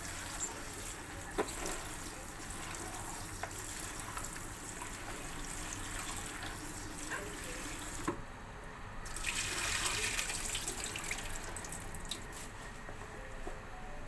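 Water running from a kitchen tap, with scattered clicks and knocks of handling. The flow drops away about eight seconds in, then runs louder for a few seconds.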